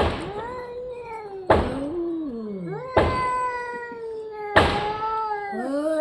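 Domestic cat meowing over and over in long, drawn-out yowls that glide in pitch, about four in a row. Each one starts abruptly with a sharp click.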